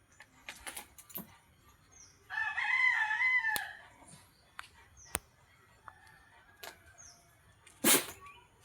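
A rooster crows once, a long pitched call lasting about a second and a half, starting about two seconds in. Scattered clicks, a few short high chirps and a loud sharp knock near the end are heard around it.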